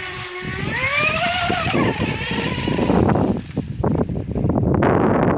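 FT010 radio-controlled speedboat's electric motor whining up in pitch as the throttle opens, then a choppy rush of spray and water as the hull speeds across the surface.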